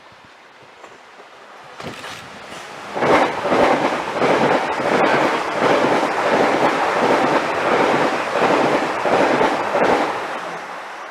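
A train passing close by: the noise rises about two seconds in, stays loud with an evenly repeating pulse from the wheels for about seven seconds, then drops away near the end.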